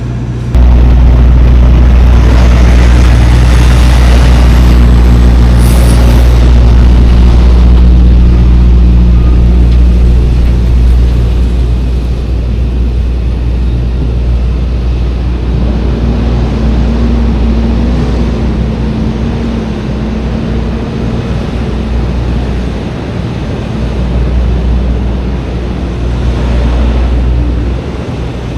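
Tractor-trailer's diesel engine and road noise heard from inside the cab while driving: a loud, steady low drone that jumps louder about half a second in, with the engine note shifting upward about halfway through.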